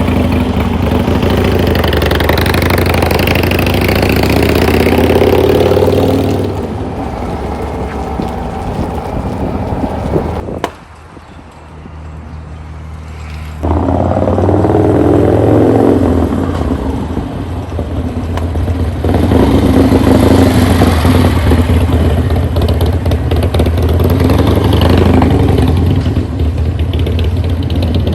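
Harley-Davidson Sportster Iron 883's air-cooled V-twin, newly bored out to 1200 cc with an S&S Hooligan kit, running under way during its run-in. Its pitch rises and falls again and again as it accelerates and eases off. About ten seconds in the sound drops suddenly to a much quieter level for about three seconds, then the engine comes back strongly.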